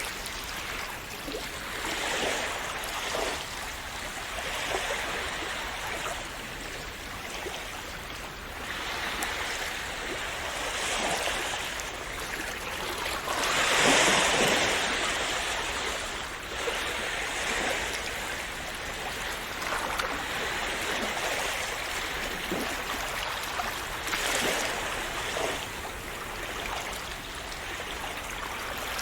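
Calm sea waves washing and splashing on the shore in a steady wash that swells and ebbs every few seconds, with one louder wave breaking about halfway through.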